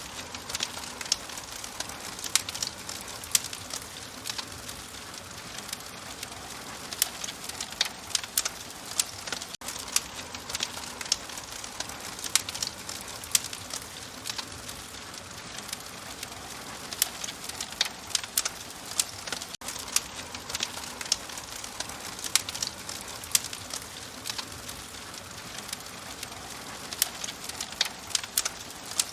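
Fire crackling: frequent sharp irregular pops and snaps over a steady soft hiss.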